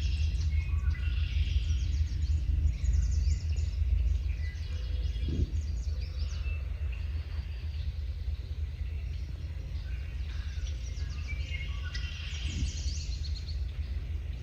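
Several songbirds singing in short, quick phrases over a steady low rumble.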